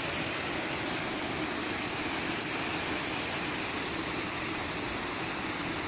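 Steady rushing of a high mountain waterfall, an even wash of falling water.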